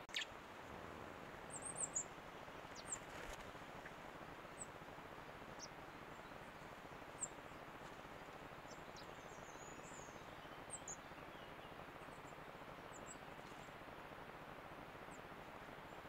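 Faint, short, high-pitched bird chirps, scattered and irregular, over the steady hiss of a trail camera's microphone. A sharp click comes right at the start.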